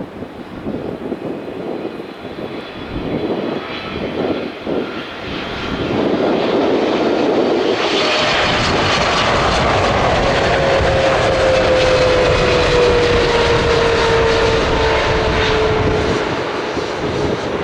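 Jet engines of a Boeing 777-300 airliner arriving on final approach, a rumble that grows loud about six seconds in. A whine then slides slowly down in pitch as the plane passes.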